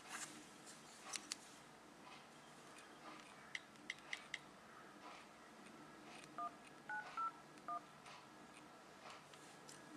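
iPhone keypad touch-tones as a number is dialed: four short two-note beeps in quick succession about six and a half seconds in, preceded by a few short clicks.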